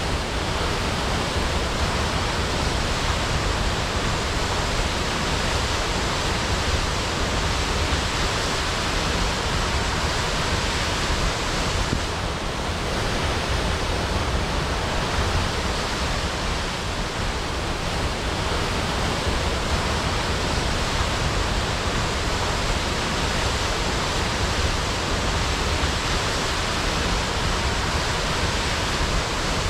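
Waterfall crashing: a steady, even rush of falling water.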